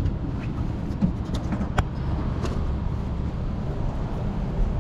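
Steady low road rumble of a car driving, with a few short clicks or rattles about one and two seconds in.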